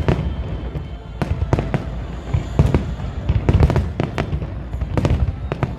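Aerial fireworks bursting: a rapid, irregular run of sharp bangs, some coming in quick clusters, over a continuous low rumble.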